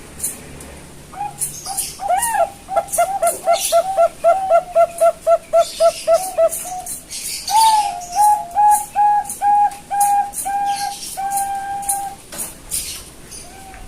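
Young Bangkok-strain zebra dove (perkutut) singing its cooing song: a fast run of about twenty short rolling coos, then a slower series of longer, level coos. Faint high clicks sound throughout.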